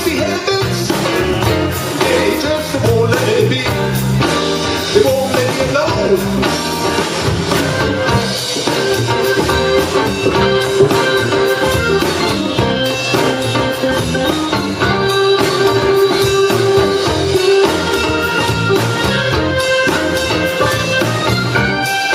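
Live blues band playing with electric guitar, bass and drums, with held melody notes over a steady beat.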